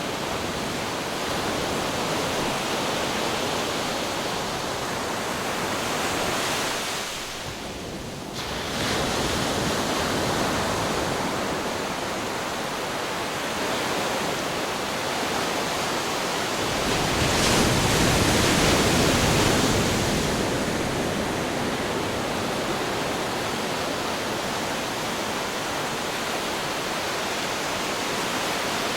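Ocean surf crashing on rocks: a continuous wash of churning water that dips briefly about a quarter of the way in, then swells into a heavier, deeper crash a little past halfway before settling back, with some wind buffeting the microphone.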